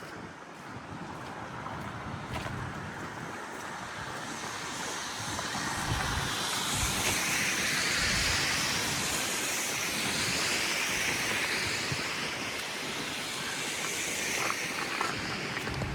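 Tyre hiss of a passing vehicle on a snowy street, swelling from about four seconds in, loudest around the middle, then fading away.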